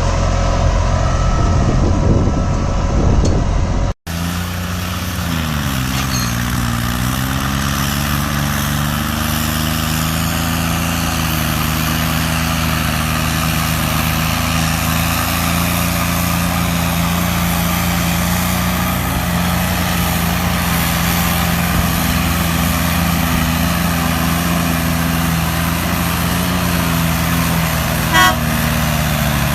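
John Deere 5410 tractor's diesel engine running under load while pulling a 24-disc harrow. Its pitch sags about five seconds in and then recovers, holding steady afterwards. Near the end there is a brief, sharp sound.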